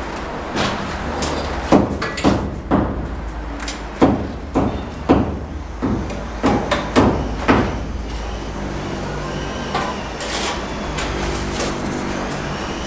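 Irregular sharp knocks, about one or two a second, from hand-tool bricklaying work, such as a trowel striking brick or mortar, over a steady low hum. The knocks stop about eight seconds in.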